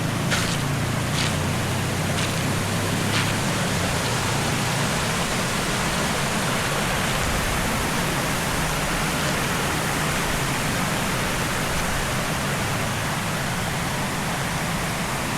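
Waterfall water rushing steadily, a loud, even noise, with a few light clicks in the first three seconds.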